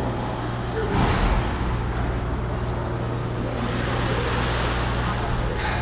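Steady background noise of a game venue with a low hum, and a brief louder burst about a second in.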